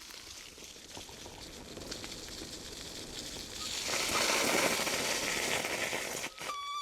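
Forest stream running, a steady rushing that swells louder for a couple of seconds in the middle before easing off. Near the end a steady whistle-like tone comes in.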